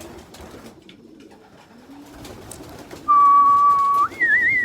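Racing pigeons cooing softly in a loft. About three seconds in, a loud, steady whistled note starts, holds for about a second, then jumps higher with a wavering warble near the end.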